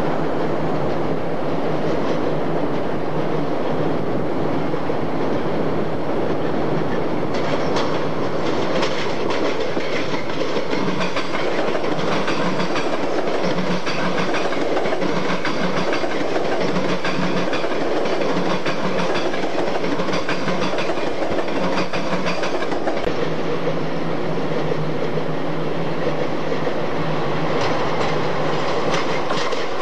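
Electric passenger trains rolling past: a steady rumble of steel wheels on rail, with clickety-clack over the rail joints through most of it.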